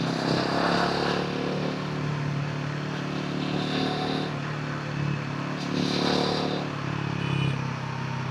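Royal Enfield Himalayan 450's single-cylinder engine and exhaust running steadily, the note swelling slightly a few times.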